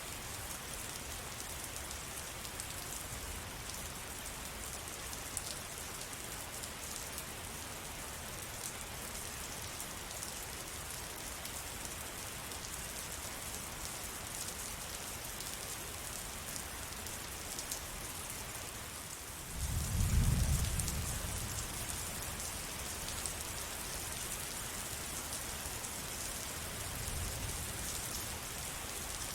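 Steady rain falling, an even hiss of many drops. About two-thirds of the way through, the sound dips for a moment, then a low rumble swells and fades over a couple of seconds, with a fainter rumble near the end.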